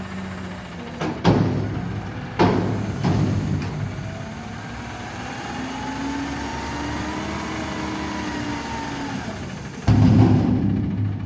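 Front-loading garbage truck emptying a dumpster. The diesel engine runs throughout, with loud metal bangs about a second in and twice more soon after. The engine and hydraulics then rise and fall in pitch for several seconds as the lift works, and a loud crash comes near the end.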